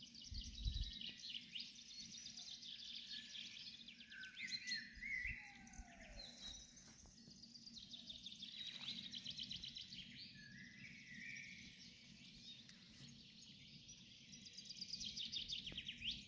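Several songbirds singing and calling, with chirps and trills overlapping and a quick run of repeated notes about nine seconds in and again near the end, over a faint low steady background noise.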